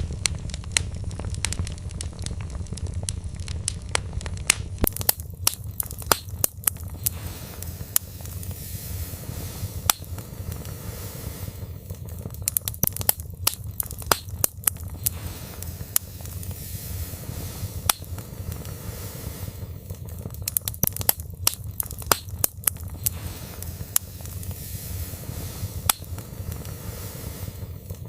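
Wood fire burning in a fireplace: logs crackling with many sharp, irregular pops over a steady low rumble and hiss of flames.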